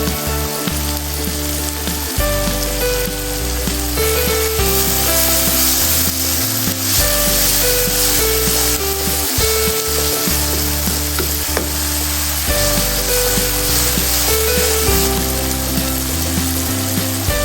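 Food frying in hot oil in a pan, with a steady sizzle throughout, over background music.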